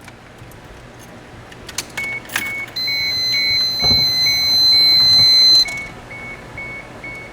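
Keys jangling and clicking as the car is switched on, followed by a car's warning chime beeping evenly about twice a second. A loud, steady high-pitched electronic tone sounds over the chime for about three seconds in the middle.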